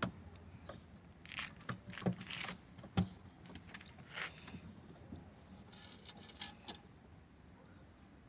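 Scattered clicks, light knocks and brief scrapes of a refrigerator thermostat and its plastic housing being handled and pressed into place during fitting. The sounds thin out near the end.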